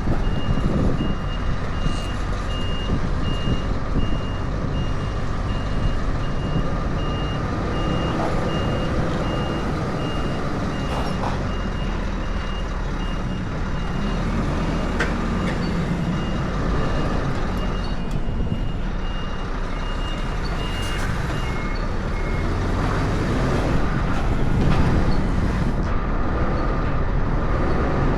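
Truck reversing alarm beeping steadily, about once a second, over a diesel truck engine running. The beeping stops about three quarters of the way through.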